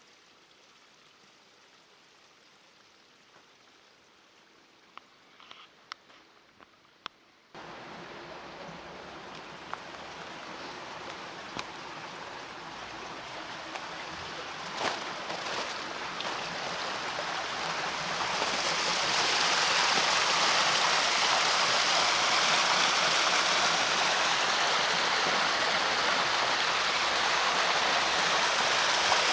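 Rushing water: a faint hush with a few soft clicks, then an abrupt start about seven seconds in of a steady rushing hiss that grows louder for about ten seconds and then holds steady.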